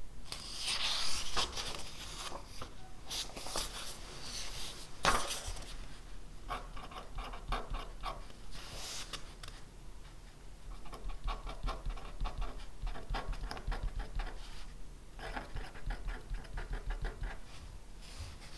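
Pen writing on paper: runs of quick scratchy strokes broken by short pauses, with a couple of louder scrapes about a second in and about five seconds in.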